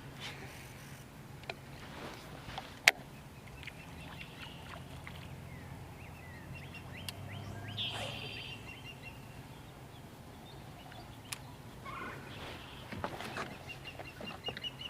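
Birds calling, with a quick run of high chirps near the end, over a steady low hum and a few sharp clicks.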